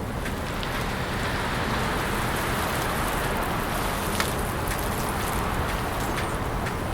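Steady hiss of a snow storm, with wet snow or sleet falling and scattered light ticks of flakes or pellets striking, one sharper tick about four seconds in.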